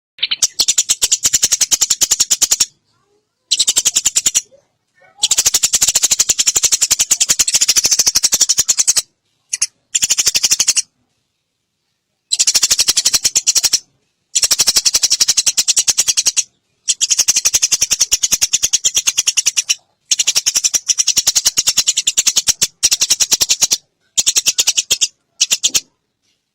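Eurasian tree sparrows chattering in a fight: long runs of rapid, harsh chirps, many per second, in bouts of a few seconds that start and stop abruptly.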